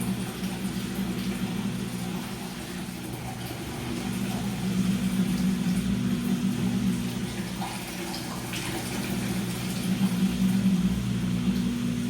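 Washing machine running: a steady motor hum with water sloshing in the drum, swelling louder about four seconds in and again near the end.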